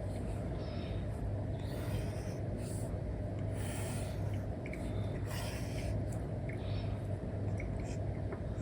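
An Apple Pencil's nib stroking and tapping on a paper-like iPad screen film, making short scratchy strokes about 2, 4 and 5.5 seconds in, with small ticks in between. A steady low hum runs underneath.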